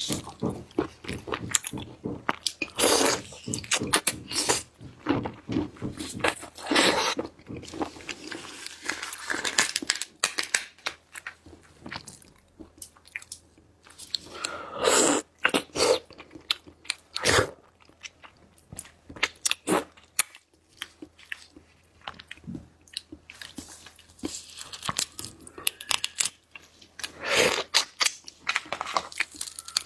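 Close-miked eating of seafood: irregular crunching bites and wet chewing, with a few louder crunches now and then.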